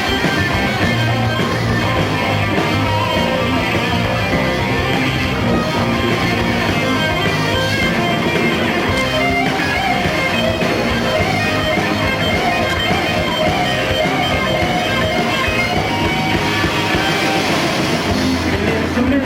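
Rock band playing live through an instrumental passage between vocal lines, electric guitar to the fore over bass and drums.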